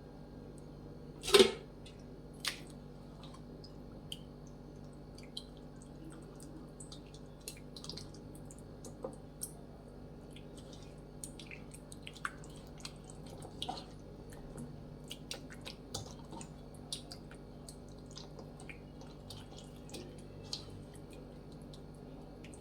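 Hands rubbing a wet masala paste into raw chicken pieces: soft squishes and small scattered clicks, with one sharp knock about a second in.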